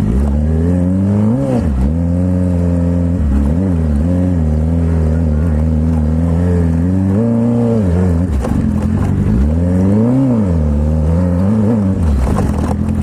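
Sportbike engine running under way, its pitch climbing and falling back several times as the throttle is rolled on and off.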